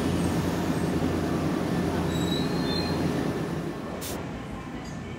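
Nankai electric train at a station platform: a steady low hum of the train with faint high wheel squeal, easing off a little after about three and a half seconds. A short sharp click comes about four seconds in.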